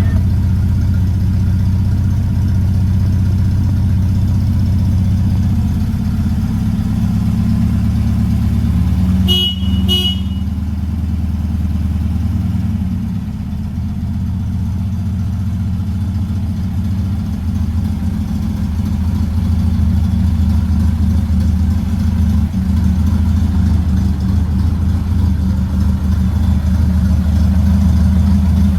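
A 1967 VW Beetle's air-cooled flat-four engine running steadily while it warms up after a cold start. Two short toots sound about nine and ten seconds in.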